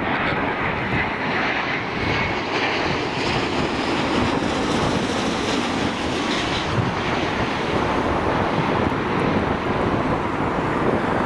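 Airbus A350's Rolls-Royce Trent XWB jet engines rushing steadily as the airliner comes in to land, with a faint high whine in the first few seconds.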